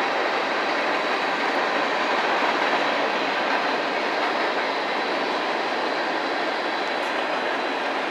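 Train rolling past, the steady, unbroken noise of its wheels running on the rails.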